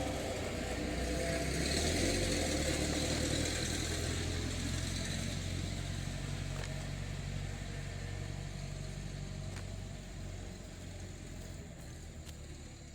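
A motor vehicle's engine running, growing a little louder for the first couple of seconds and then fading away steadily.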